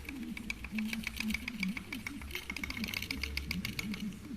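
Worn rear shock absorber strut from a Lada Granta, its rod worked side to side by hand and clicking in a fast, uneven run. The rod is so worn that it knocks against the cylinder walls, the cause of the car's dull knock from the rear.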